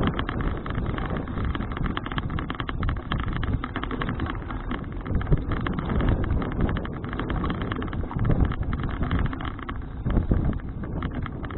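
Wind rushing over an action camera's microphone on a moving folding bicycle, with a dense run of small clicks and rattles from the ride.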